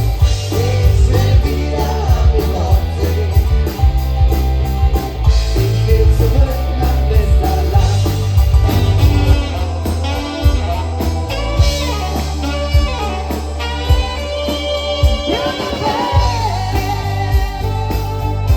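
Rock cover band playing live: a singer over electric guitar, bass and drum kit, with a heavy, steady bass and a regular drum beat.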